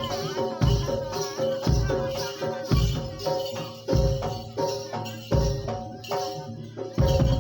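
Kuda lumping ensemble music: heavy low drum strokes about once a second under steady ringing metallophone tones and jingling percussion, with a wavering high melody in the first couple of seconds.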